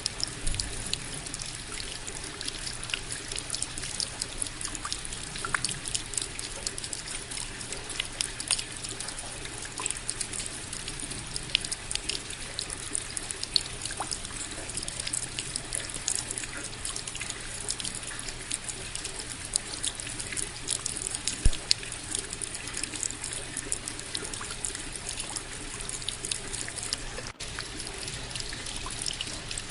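Steady rain falling, a dense patter of many separate drop hits with trickling water underneath. The sound cuts out for an instant near the end.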